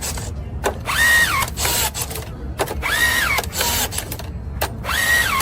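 A machine's motor whining up to speed, holding briefly and winding down, about every two seconds, with sharp clicks between the cycles.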